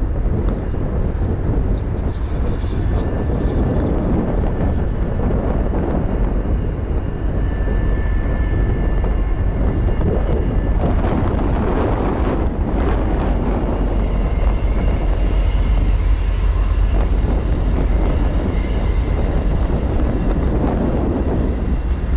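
Diesel freight locomotives running past close by with a heavy low rumble, loudest about halfway through as the units pass, followed by the freight cars rolling by on the rails.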